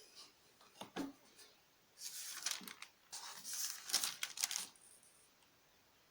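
Thin Bible pages being handled and turned: a few light clicks, then two stretches of papery rustling and crinkling.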